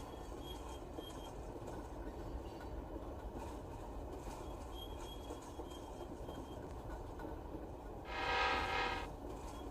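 Freight train pulling away from a station: a steady rumble of the train rolling, with one horn blast about a second long near the end, the loudest sound.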